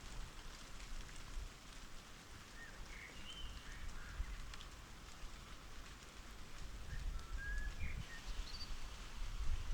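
Light rain pattering steadily, with scattered drop ticks and a few short bird chirps. A low wind rumble on the microphone grows near the end.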